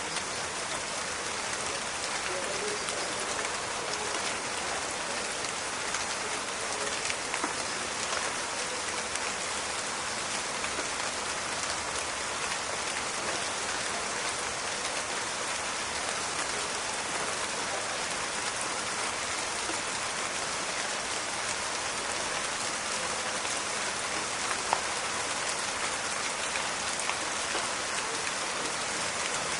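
Steady rain falling, with a dense hiss of drops and scattered sharper drip ticks, one standing out a little before the end.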